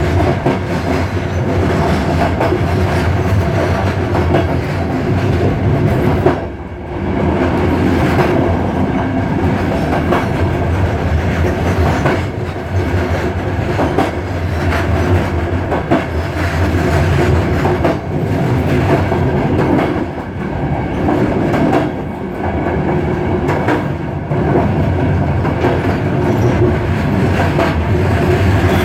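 InterRegio passenger train running along the track: a steady rumble of wheels on rail, with the clickety-clack of wheels passing over rail joints. The sound dips briefly about six seconds in.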